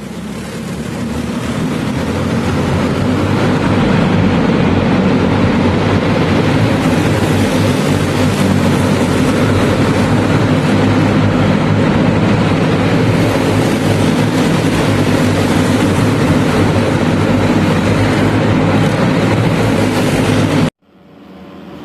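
Racing car engines running hard at high revs, a loud, steady din. It cuts off abruptly near the end, and a quieter engine sound fades in.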